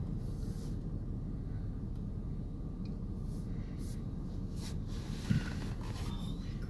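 Steady low rumble of strong wind from the storm's rear-flank gusts, with a few faint clicks and a single thump about five seconds in.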